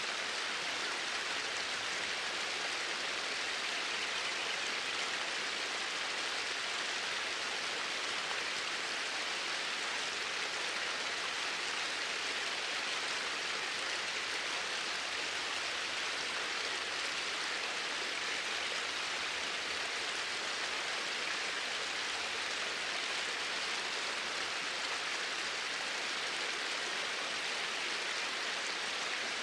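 Flowing water rushing steadily, like a stream, with no change in level.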